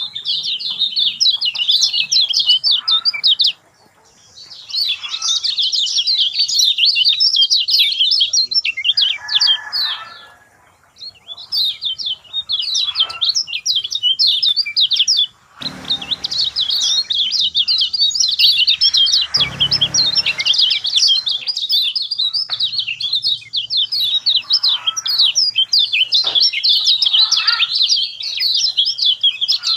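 Kecial kuning singing in gacor style: a fast, unbroken stream of high chirps and twitters, with a few short pauses. A couple of low rustling sounds come under the song about halfway through.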